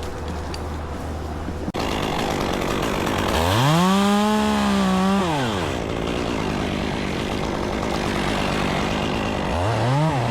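Chainsaw running: a low steady hum that breaks off abruptly, then the saw is opened up to full throttle, held for about two seconds and let back down. It revs up again near the end.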